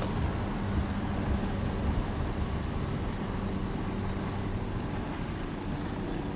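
Rheem Classic air conditioner's outdoor condensing unit running: a steady hum with low tones from the compressor and condenser fan.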